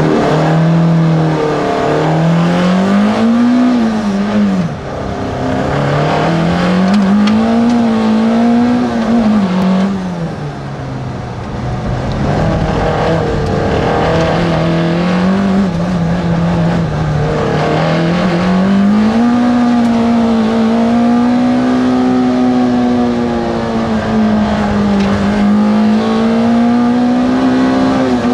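Peugeot 106's 1360 cc four-cylinder engine heard from inside the cabin, driven hard. The revs climb in each gear and drop back sharply at each gear change or lift for a bend, several times over.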